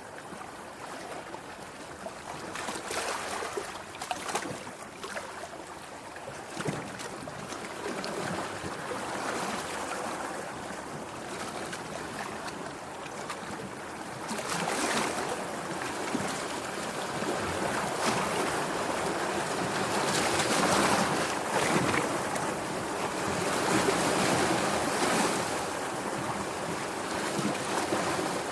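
Sea waves washing and surging, with several louder swells. The sound grows stronger in the second half.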